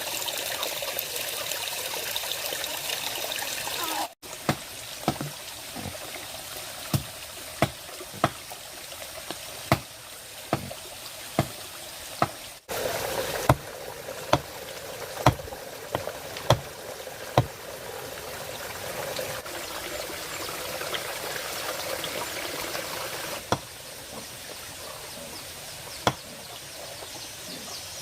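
Water trickling steadily, with a run of sharp knocks or taps, one or two a second, through the middle. The sound breaks off abruptly twice.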